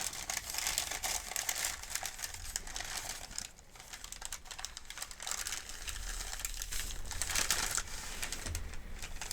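Paper medication guide being handled and crinkled close to the microphone: a dense run of rustling and crackling with many small clicks, easing briefly about three and a half seconds in.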